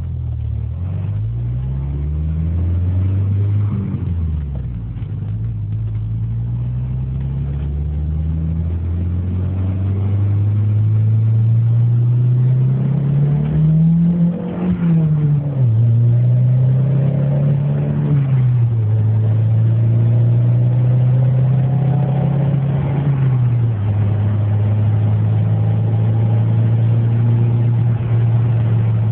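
Volvo 945 turbo car engine accelerating, its pitch climbing and then dropping sharply at each of several gear changes, and holding a steady cruise pitch near the end.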